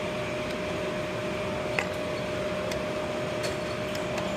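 Electric pipe-threading machine running steadily with an even motor hum, and a single short click about two seconds in.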